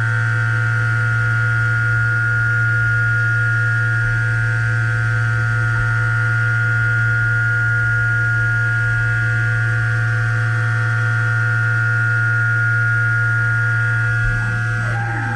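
DMG MORI M1 CNC vertical milling machine running, with a steady, even machine whine made of several constant tones. Near the end a tone slides down in pitch.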